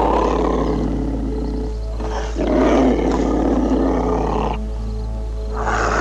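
Long, rough calls of a large animal, three in a row, over background music with sustained notes.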